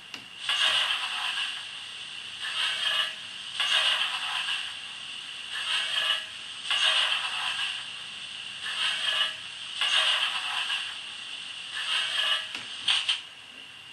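Hornby model steam locomotive's DCC sound decoder playing slow exhaust chuffs through its small onboard speaker: nine hissing chuffs in an uneven rhythm, roughly one every second or two, as the model moves at low speed.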